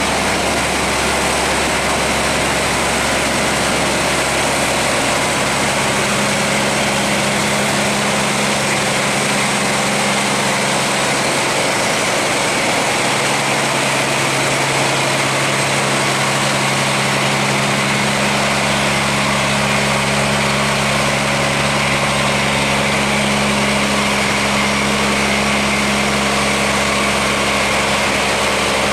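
A barge's engine running steadily over a constant rush of water through the sluice gate. A low engine hum grows stronger about six seconds in and again from about thirteen seconds.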